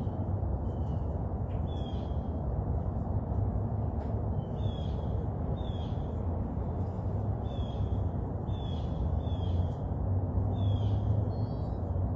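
A bird calling over and over in short, falling notes, about one a second with a brief pause early on, over a steady low rumble.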